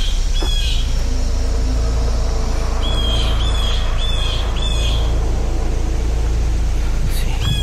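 A bird chirping: short, clear arched notes, one near the start, a quick run of four about half a second apart a few seconds in, and another near the end. Underneath is a steady low rumble.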